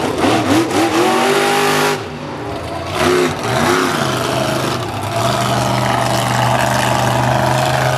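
Monster truck engine revving hard in quick rising and falling bursts during a wheelie attempt. It drops off about two seconds in, revs briefly again near three seconds, then holds a steady note from about five seconds on.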